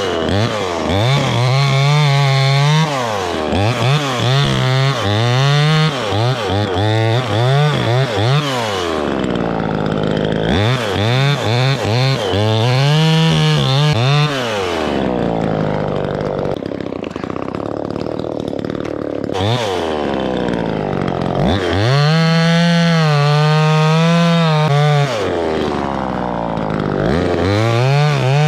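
Chainsaw revving up and down again and again, held at high speed for a few seconds at a time while cutting and dropping back in between.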